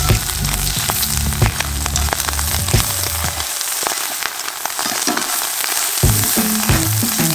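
Food frying in an iron skillet over a campfire, a steady sizzle full of fine crackles. Background music runs under it, its low notes dropping out for a couple of seconds midway.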